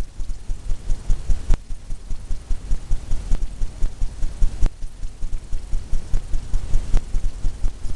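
Fan brush tapping wet titanium white onto a canvas to make the foam of a wave: a fast, rhythmic run of dull taps, about four a second, with a few sharper clicks among them.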